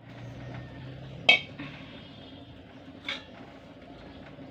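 Two clinks of metal cutlery against a dish: a louder one about a second in and a fainter one near the end, each ringing briefly.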